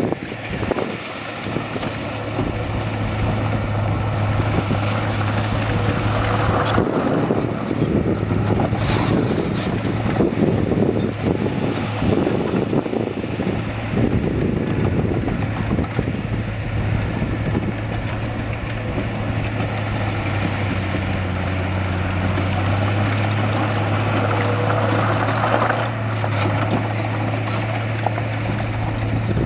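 Heavy diesel engine of earthmoving machinery running steadily, with a low hum throughout. Rougher, noisier clatter is mixed in for several seconds in the middle.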